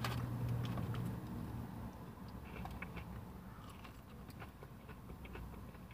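Faint crunching and small clicks of biting into and chewing a cornmeal-breaded fried chicken tender, over a low steady hum that fades after the first second or so.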